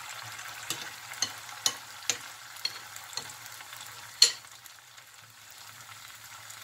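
Pumpkin fritter batter frying in hot oil in a pan: a steady sizzle. A run of sharp ticks comes over the first few seconds, then one louder click about four seconds in.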